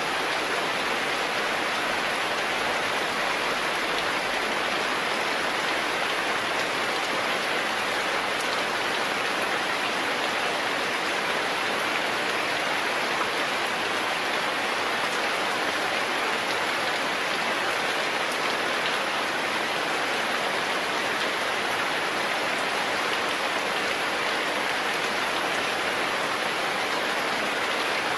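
Steady rain falling, an even hiss of many drops that does not change in strength.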